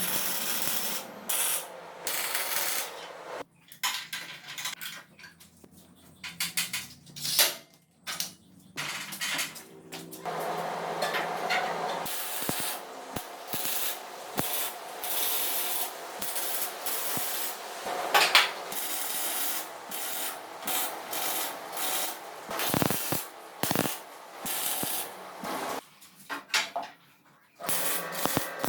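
Hand work on metal: a run of irregular short rasping, hissing strokes with brief pauses between them.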